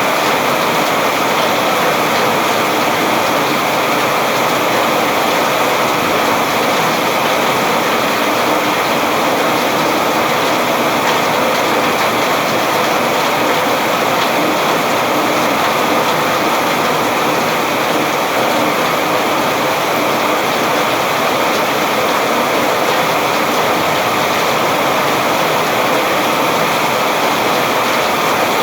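Heavy rain falling steadily, a dense, even hiss of countless drops with no single drops standing out.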